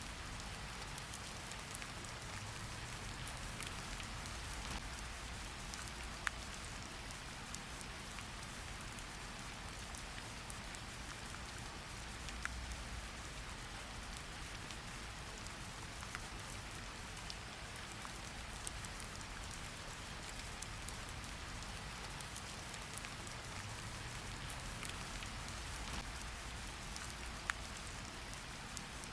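Steady rain falling and pattering on a surface, a continuous even hiss with scattered sharper drop ticks and a soft low rumble underneath.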